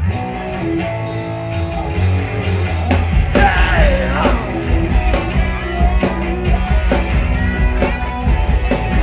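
Live rock band playing loud full-band cowpunk, cutting in abruptly at the start.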